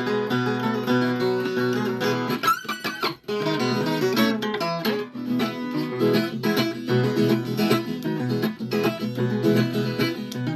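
Viola caipira, a Brazilian ten-string folk guitar, playing a plucked instrumental interlude between sung verses, with a brief break about three seconds in.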